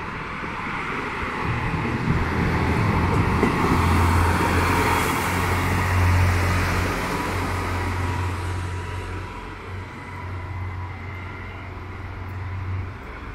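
A local train running past on the line: a rumbling hiss of wheels on rail over a deep, steady drone from the train's drive. The sound swells to its loudest a few seconds in, then slowly fades.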